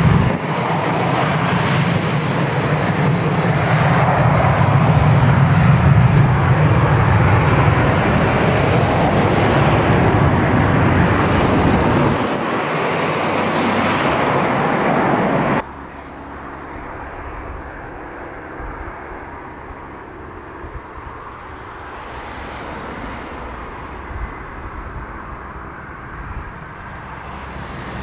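Aircraft engines at takeoff power, loud and steady. The sound cuts off abruptly a little over halfway through and gives way to quieter, more distant engine noise.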